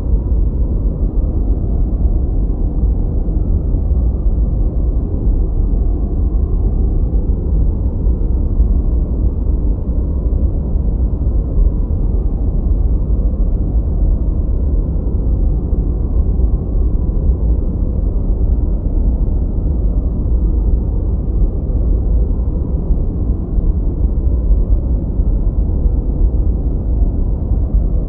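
Continuous masking noise, steady and unchanging, weighted toward the low end: a deep, even hiss with little in the treble, closer to brown noise than to true white noise.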